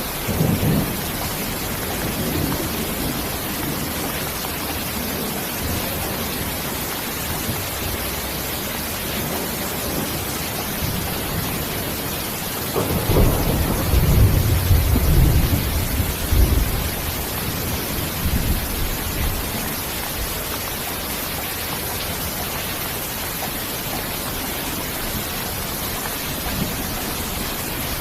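Steady rain falling, with a rolling rumble of thunder about thirteen seconds in that lasts several seconds, and a brief lighter rumble near the start.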